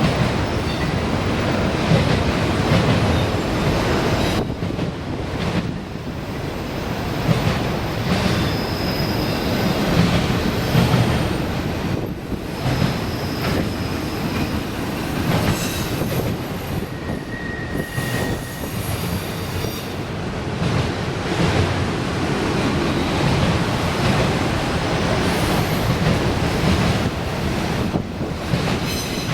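CSX freight train rolling past, its wheels running on the rail with a continuous rumble and clatter and a few faint, thin wheel squeals.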